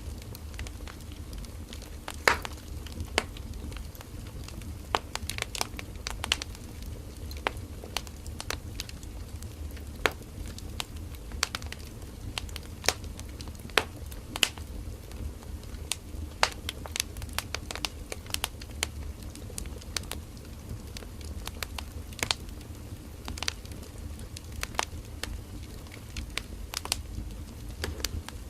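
Firewood burning in an open fire, crackling with frequent sharp, irregular pops over a low steady rumble of the flames.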